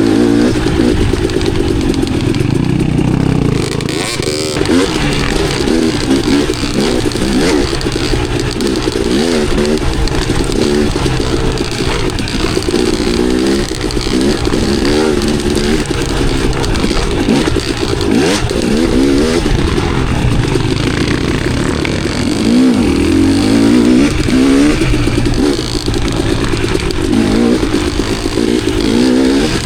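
KTM enduro dirt bike engine being ridden hard, revving up and down constantly as the throttle opens and closes.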